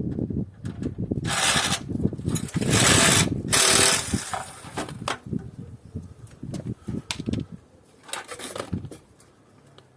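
Metal parts of a scrap air-conditioning unit being worked with hand tools: irregular knocks and clatter, broken by four short harsh rasping bursts, the loudest around the middle.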